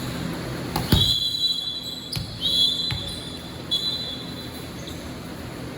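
A basketball bouncing on a court floor: a hard bounce just before a second in, then two lighter ones. Three high, steady squeals of about a second each come through over it.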